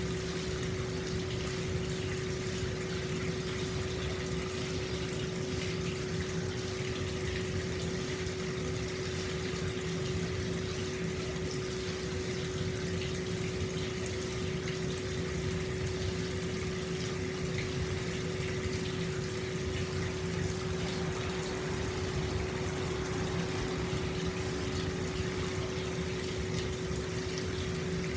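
Hot spring water pouring steadily into an open-air bath, a constant splashing flow with a steady hum underneath.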